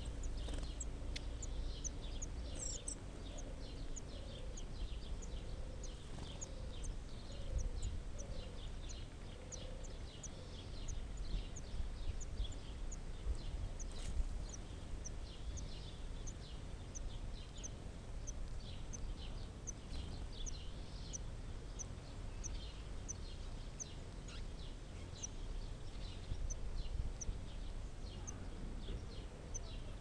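Thin, high bird chirps repeated every half second or so, over a steady low background rumble.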